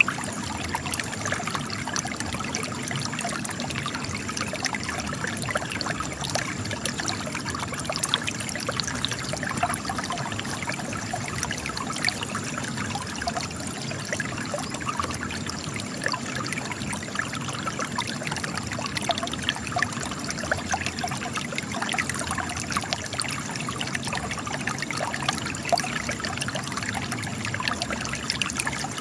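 Spring water trickling and splashing out of cracks in rock, a steady run of small drips and splashes.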